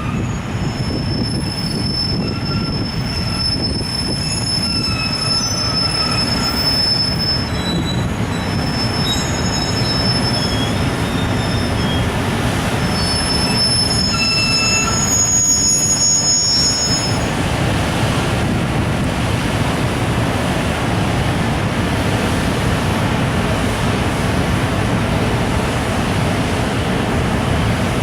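Freight train hauled by an EF510 electric locomotive pulling out with its container wagons, wheels squealing in thin high tones over a low rumble. About two-thirds of the way through the squeal dies away, leaving a steady rolling rumble.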